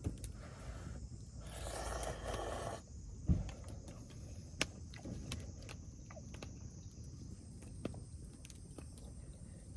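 Mealtime handling sounds: scattered light clicks and knocks, a rustle about two seconds in and a dull thump just after three seconds. Under them runs a faint steady chirring of insects.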